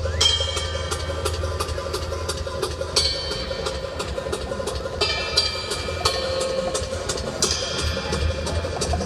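Fireworks going off in rapid succession: a stream of sharp bangs and crackles, with a short rising whistle just after the start and shrill whistling tones that come and go. Music plays underneath.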